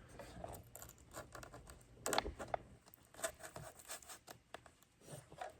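Hands working wooden barbecue skewers into the broken pieces of a foam RC airplane: faint scattered scratches, clicks and scrapes, the loudest a short burst of scraping about two seconds in.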